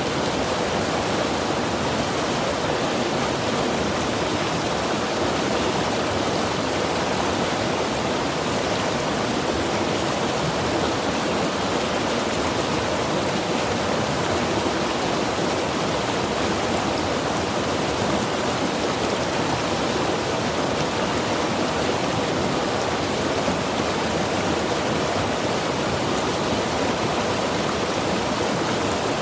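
Mountain river rushing steadily over rocks: a constant, even roar of flowing water.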